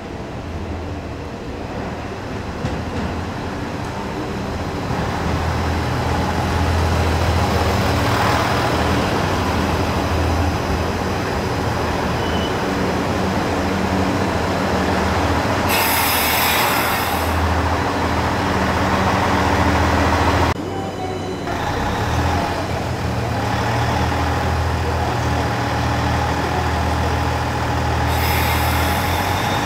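JR Central HC85 hybrid diesel train at a station platform, the steady low drone of its engine and running gear growing louder over the first few seconds. Two short hisses of compressed air come about halfway through and near the end.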